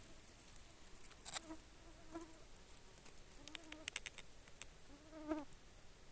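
Faint, short buzzes of an insect flying close to the microphone, several brief passes with a few light clicks between them.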